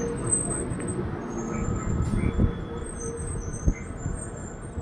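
Electric multiple unit local train running past close by: a low rumble with a few sharp knocks, slowly fading.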